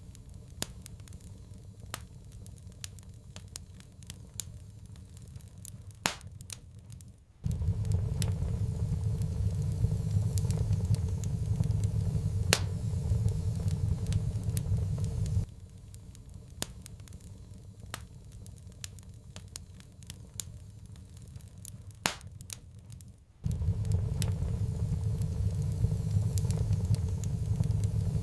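Wood fire crackling with scattered sharp pops and snaps. A low, steady fire rumble cuts in abruptly about seven seconds in, drops out suddenly about halfway through, and returns abruptly with about five seconds to go.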